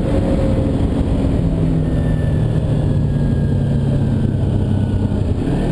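2009 Kawasaki Ninja 250R's parallel-twin engine running steadily while riding. The pitch shifts briefly near the end.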